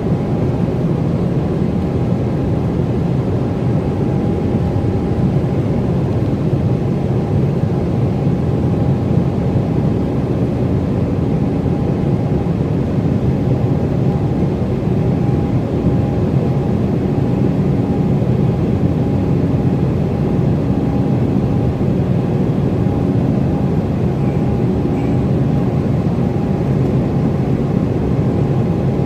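Embraer E195 jet cabin noise: the steady drone of its GE CF34-10E turbofan engines and airflow, with a steady hum held through it, unchanging in pitch and level.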